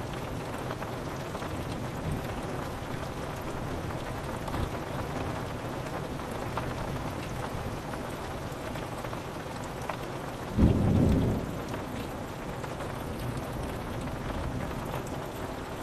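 Steady rain pattering on a window. About ten and a half seconds in, a short, loud rumble of thunder lasts about a second.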